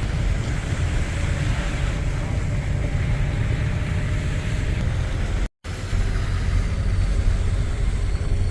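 Steady low road and engine rumble heard from inside a moving vehicle on a winding mountain road. It cuts out completely for a split second about two-thirds of the way through, then resumes.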